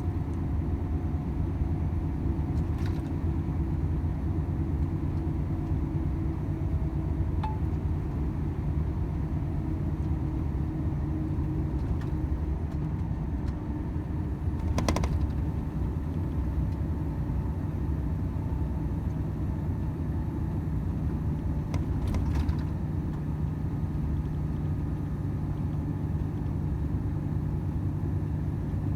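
Steady drone of a Volvo FH 500 truck's 13-litre six-cylinder diesel and road noise, heard from inside the cab while driving, with a few brief clicks or rattles.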